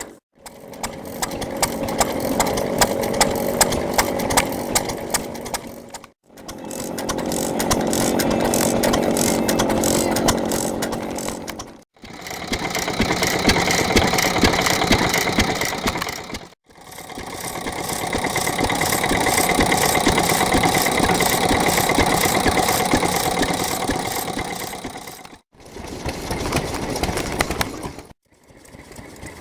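Hatsudōki, an old Japanese stationary engine, running with a rapid, even firing beat. It is heard in several stretches of a few seconds, each fading in and out through a short silent break.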